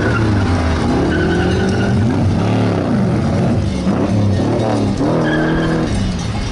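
Classic sports car engines accelerating hard, the engine note climbing and dropping back several times as the cars change gear.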